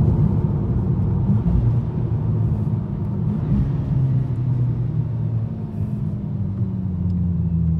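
Volkswagen MK6 GTI's turbocharged four-cylinder engine and exhaust running steadily under way, a low drone whose pitch sinks slowly through the second half as the car eases off.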